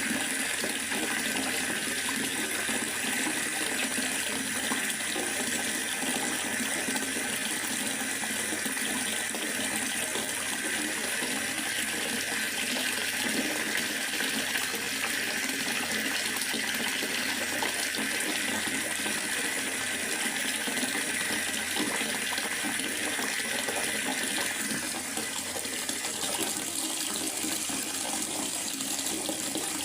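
Steady rainfall in a forest: an even, unbroken hiss of falling water.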